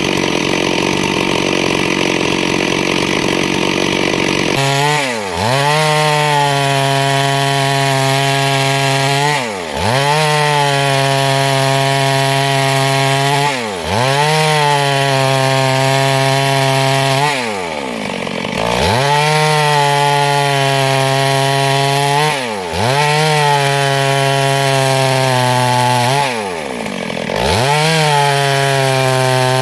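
Two-stroke chainsaw running hard while cutting through wood. Its engine note dips briefly and picks back up about every four seconds.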